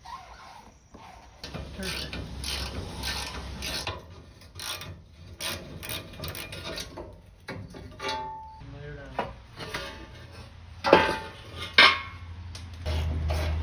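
Hand ratchet wrench clicking in irregular runs as bolts are worked, with two sharp metal knocks near the end.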